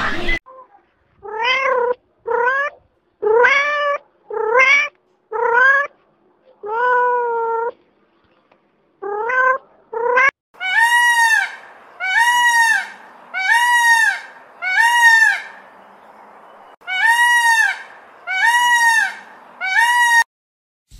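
A Siamese kitten meows about eight times. Then an Indian peafowl (peacock) gives a series of about a dozen short, loud calls, roughly one a second, with a short pause in the middle.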